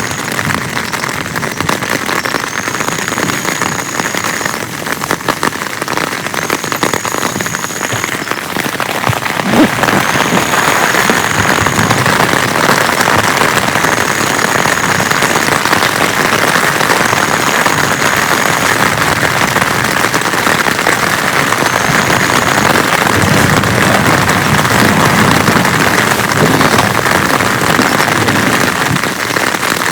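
Heavy rain pouring down steadily, the downpour growing louder and heavier about a third of the way in.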